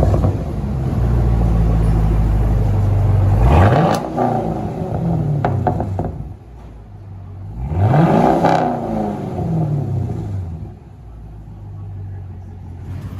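Car engine idling loudly through an exhaust with the resonators removed and an X-pipe fitted, revved twice, about four and eight seconds in, with the pitch rising and falling each time. It settles back to a quieter idle near the end.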